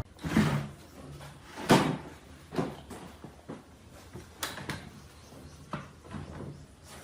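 A string of irregular knocks and clunks, as of solid wood pieces being handled and set down in a workshop, the loudest a sharp knock about two seconds in.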